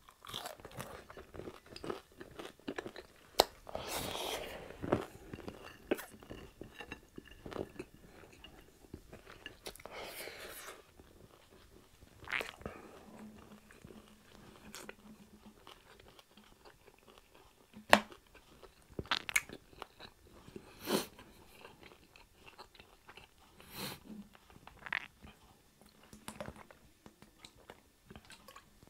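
A person chewing and crunching crispy fried pork chop, with scattered sharp crunches among quieter chewing.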